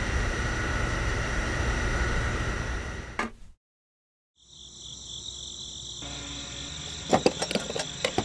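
A steady mechanical hum that stops abruptly with a click about three seconds in, followed by a second of silence. Then comes a steady, high insect-like chirring, with a quick run of plastic clicks near the end as a pump nozzle is hooked back into a model fuel dispenser.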